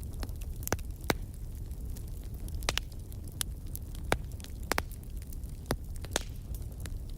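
Wood fire crackling: sharp pops and snaps at irregular moments, several of them loud, over a steady low rumble of burning.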